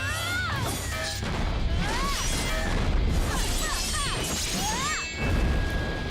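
Animated battle sound effects: crashing impacts over a low rumble, with several quick pitch sweeps that rise then fall and a held tone near the end, and music underneath.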